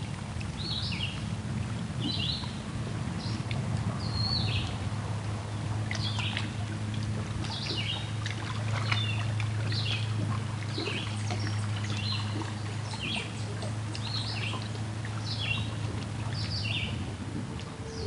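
Small birds chirping over and over, short high calls one or two a second, over a steady low drone.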